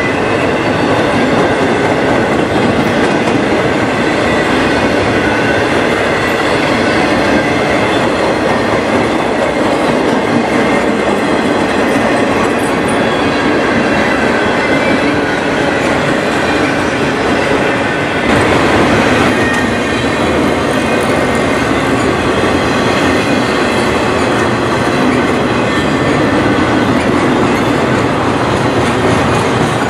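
Intermodal freight train of highway trailers on flatcars rolling past close by: a steady, loud noise of steel wheels running over the rails.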